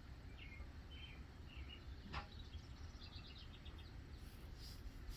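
Faint outdoor ambience: small birds giving short high chirps, several early on and a quick run of them around the middle, over a steady low rumble, with one sharp click a little over two seconds in.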